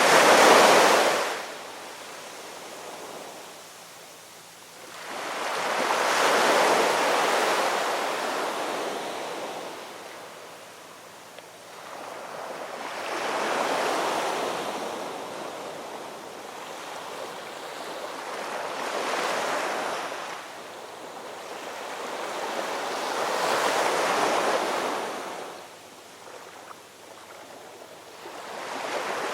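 Gentle ocean waves washing onto shore, each swell of surf rising and falling away, about one every five to six seconds.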